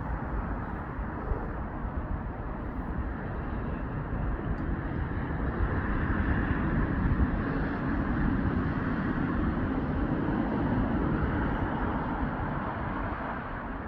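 Road traffic going by: a steady rumble of engines and tyres that swells as a vehicle passes about halfway through.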